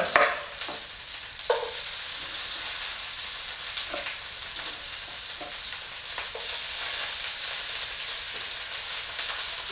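Small slabs of frozen steak sizzling steadily in a hot nonstick pan, with a few faint clicks.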